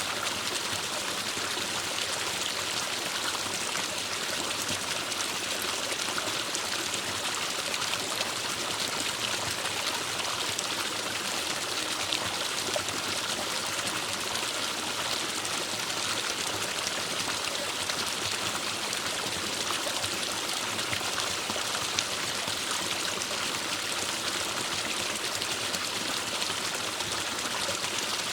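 Forest stream flowing: a steady rush of running water, trickling and splashing evenly without a break.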